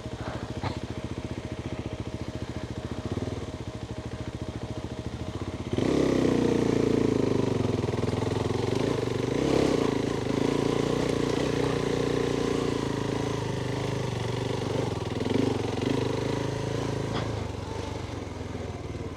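Adventure motorcycle's engine running while riding off-road, the throttle opened about six seconds in and held, making it clearly louder. A couple of light clicks from the bike come through.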